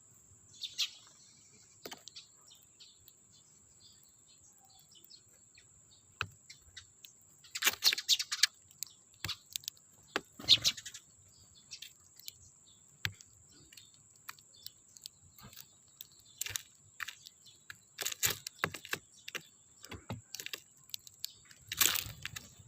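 Sparrows chirping in short scattered calls, with clusters of sharp chirps and clicks about 8, 10, 18 and 22 seconds in.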